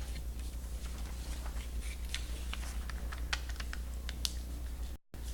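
A sheet of paper being folded and creased into a triangle, with scattered small crackles and rustles over a steady low hum; the sound drops out briefly near the end.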